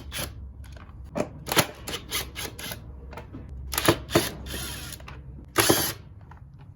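Sharp clicks and knocks of screws and metal parts being worked loose from an air compressor's cover, a fast run of them in the first seconds, then a short louder rasping noise near the end.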